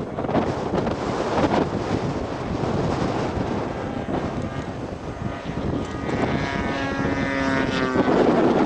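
Wind buffeting the microphone, with a radio-controlled scale model airplane's engine running in flight; its engine note comes through clearly for about two seconds near the end.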